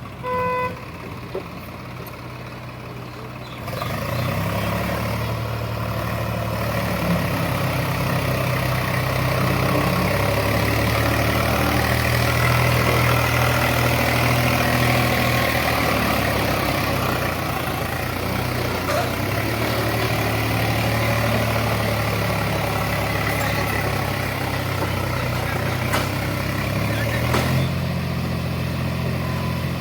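A heavy diesel engine running steadily; it gets louder about four seconds in and changes pitch slightly near the end. A short beep sounds just before the engine grows louder.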